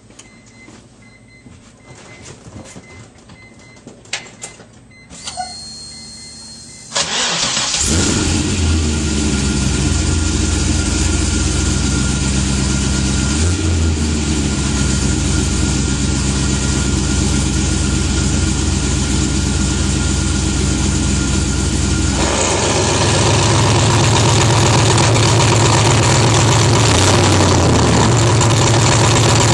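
A few light clicks, a brief steady whir, then an LS1 5.7-litre V8 swapped into a Mazda RX-7 FD cranks and catches and settles into a steady idle with a small blip. About two-thirds of the way through, the idle turns louder and deeper, as the exhaust cutout is opened.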